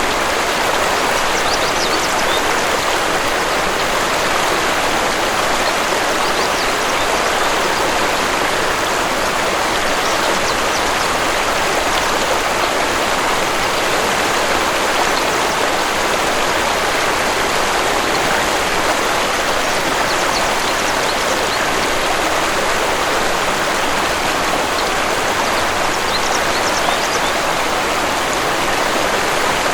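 Waterfall rushing with a steady, even roar of falling water. A few faint high bird chirps come through, near the start and again near the end.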